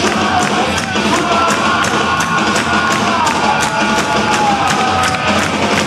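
Metalcore band playing live and loud: distorted guitars with a held melody line that slides down about three seconds in, over drums with evenly spaced cymbal hits.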